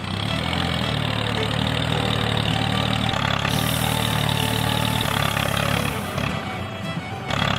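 A small engine running steadily, with a brief dip near the end.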